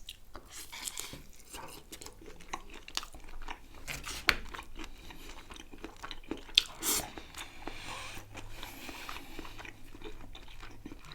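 Close-miked mouth sounds of someone biting and chewing sauce-dipped chicken kebab: irregular wet smacks and clicks, the sharpest about four and about seven seconds in.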